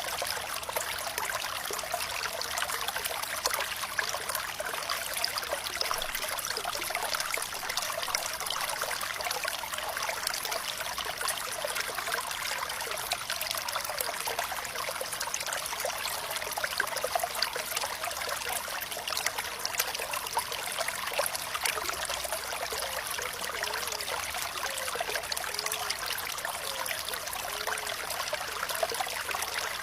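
Water running and trickling steadily over stones, as in a small stream, with small gurgles that come through more in the second half.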